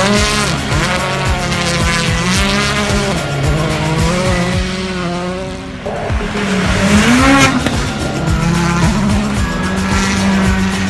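Race car engines revving and tyres squealing, their pitch rising and falling again and again.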